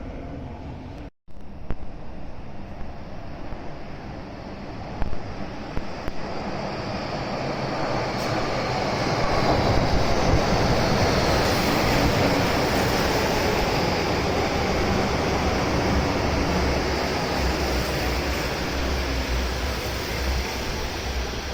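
Train running on rails, its rumble building from about eight seconds in and then holding steady, with a few sharp clacks a few seconds before.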